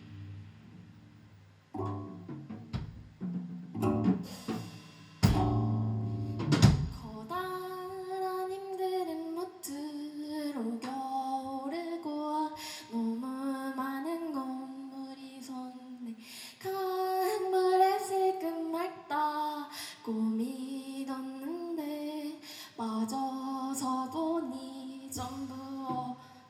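Live band music: sharp drum hits and low bass notes in the first seconds, then a singer's voice carrying the melody over the instruments from about seven seconds in.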